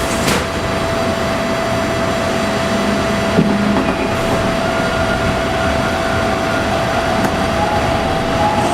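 TTC Bombardier T1 subway car running, heard from inside: a steady rumble of wheels on track with a steady whine, and three sharp clicks spread through.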